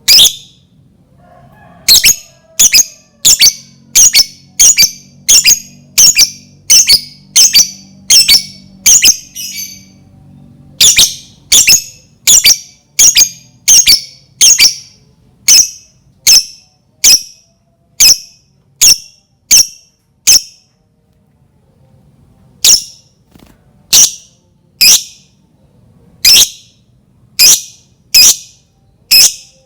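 A lovebird giving loud, shrill, short chirping calls over and over, about two a second, with a couple of brief pauses. These are the repeated calls used as a lure to set other lovebirds calling.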